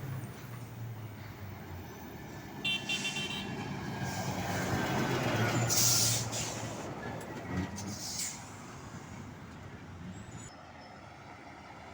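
Scania truck with a low, steady tone through the first half, then short sharp hisses of released air about six and eight seconds in.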